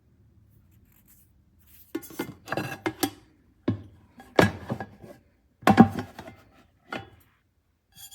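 Nonstick pots, pans and lids being handled, knocking and scraping against one another in irregular clattering bursts.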